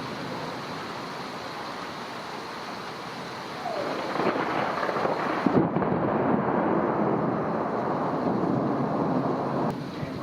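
Thunder from a close lightning strike rumbling over steady rain. It grows louder a little under four seconds in and eases off near the end.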